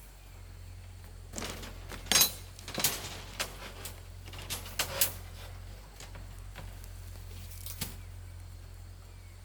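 Irregular sharp knocks and clinks of hand work on building materials: a cluster of about eight strokes over a few seconds, one more near the end, over a steady low hum.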